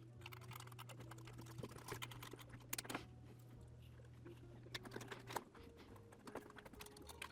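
Faint, irregular small clicks and taps of screws and hard plastic parts being handled on a remote controller's shell, over a steady low hum.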